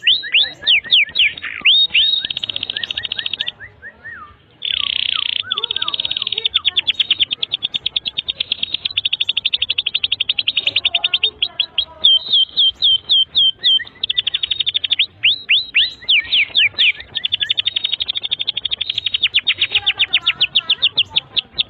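Domestic canary singing a long, fast song of rapid trills and repeated down-sweeping notes, with a short pause about four seconds in.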